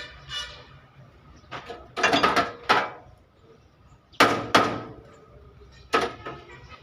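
Hammer blows on truck body sheet metal, struck in irregular groups, some in quick succession, each knock ringing briefly.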